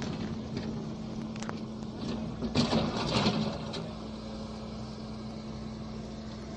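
A heavy vehicle's engine running steadily, with a burst of clattering knocks about two and a half seconds in that lasts about a second.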